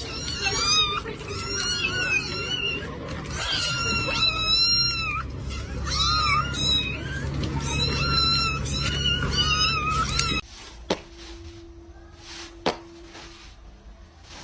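Cat meowing over and over in short, bending calls over a low steady hum. About ten seconds in it cuts to a much quieter scene with a few soft clicks.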